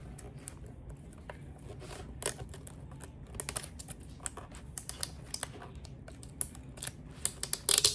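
Toy packaging being handled and opened: irregular small clicks and crinkles, busier after about three seconds, with a louder crackling cluster near the end.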